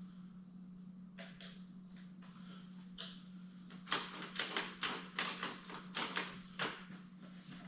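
A quick run of sharp clicks and knocks, about ten in under three seconds from about four seconds in, after a few scattered clicks, over a steady low hum.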